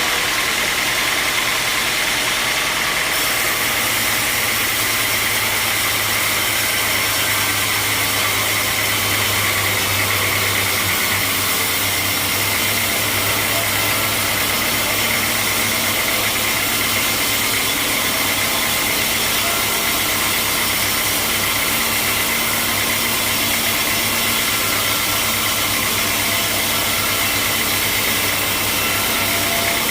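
Sawmill machinery running steadily: a continuous loud noise with a steady high whine and a low hum underneath.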